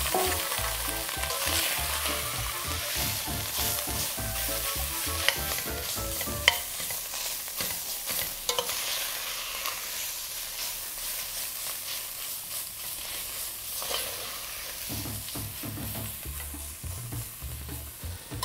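Shredded chicken breast sizzling in hot oil and spices in a stainless steel pot while it is stirred and tossed, with a few sharp clinks of a metal spoon against the pot around the middle.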